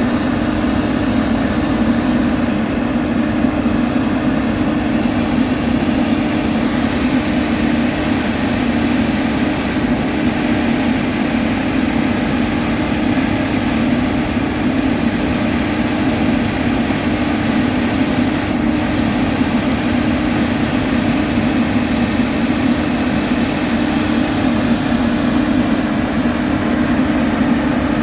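Heavy road-construction machinery running steadily, a constant engine drone that doesn't change in pitch or level.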